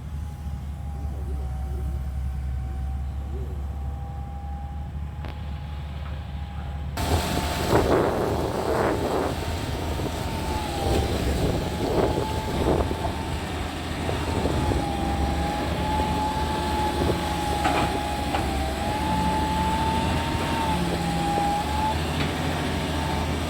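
Excavator's diesel engine running steadily, with a high whine that wavers slightly. From about a third of the way in come several clunks and knocks of the machine at work.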